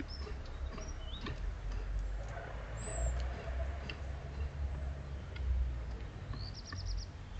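Small garden birds calling: scattered short high chirps and, near the end, a quick run of about five high notes, over a steady low rumble.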